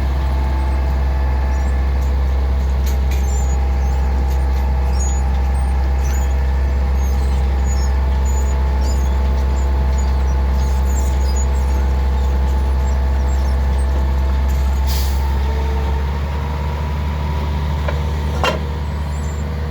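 A steady low engine drone, with a single short knock near the end.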